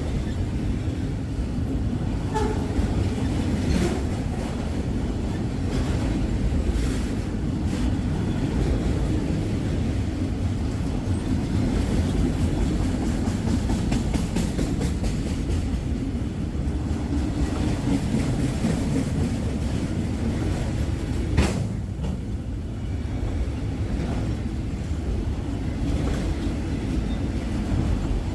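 Freight train cars rolling past close by: a steady low rumble with wheels clicking over rail joints, and one sharp clank about three quarters of the way through.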